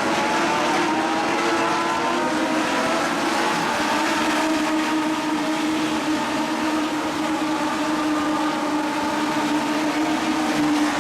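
Legends race cars, each with a Yamaha motorcycle four-cylinder engine, running at speed on the track; several engine notes overlap, some rising as the cars accelerate.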